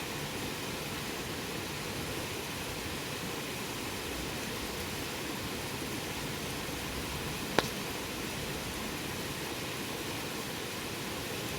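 Wood campfire burning with a steady hiss, and one sharp crackling pop about seven and a half seconds in.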